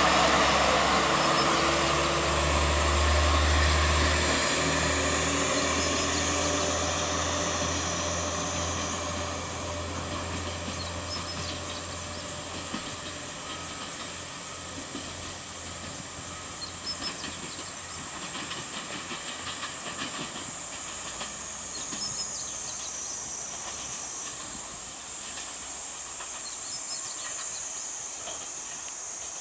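Two-car diesel railcar pulling away: its engine drone and a falling tone are strong at first, then fade steadily as the train recedes. Insects keep up a steady high buzz once it has gone.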